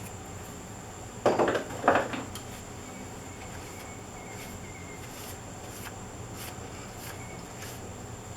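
Two short blasts of compressed air from a blow gun, about half a second apart, blowing out small holes in the turning before they are filled with CA glue.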